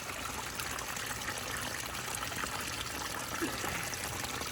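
Pond waterfall running: a steady trickle and splash of falling water.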